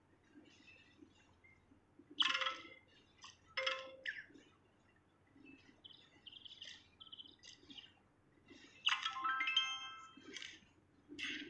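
A songbird calling: scattered short high chirps and sharp bursts, with a louder, longer call of several stepping whistled notes about nine seconds in.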